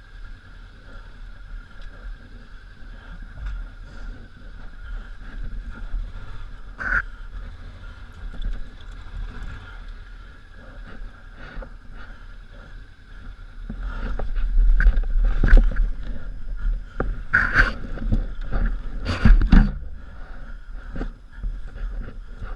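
Honda Africa Twin V-twin motorcycle engine running off-road, heard as a muffled, steady rumble with wind noise. In the second half it grows louder, with several sharp knocks as the bike goes over rough ground.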